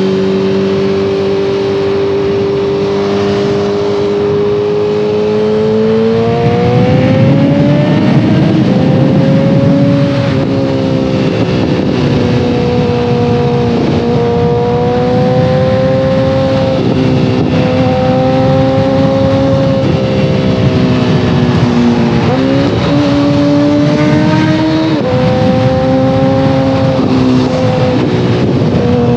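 2014 Kawasaki ZX-14R's 1441 cc inline-four running through a full Brocks Alien Head 2 exhaust while riding, heard from the rider's position. It cruises at a steady note, then the throttle opens about six seconds in and the pitch climbs. After a short drop near ten seconds it holds a fairly steady pitch, with several brief dips and recoveries.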